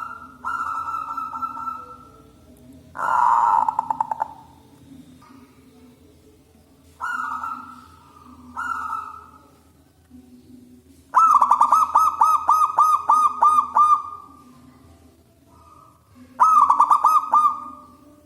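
Zebra dove (perkutut) cooing loudly in a series of short phrases, with a longer run of quick pulsed coos about two-thirds of the way in and another near the end. A faint steady low hum lies underneath.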